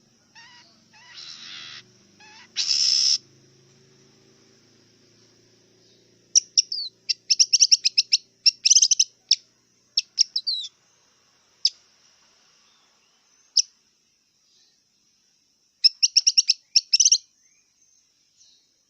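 Long-tailed shrike (cendet) singing. It gives two harsh rasping calls, then bursts of rapid, sharp chattering notes separated by pauses and a few single notes.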